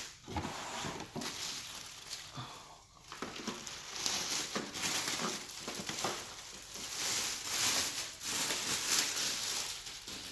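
Packaging rustling and crinkling in irregular bursts as a robot vacuum is unpacked from its box, busiest in the second half.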